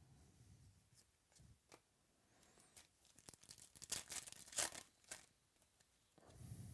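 A trading-card pack wrapper being torn open, with light clicks and rustling from the cards being handled. The loudest tearing comes about four seconds in.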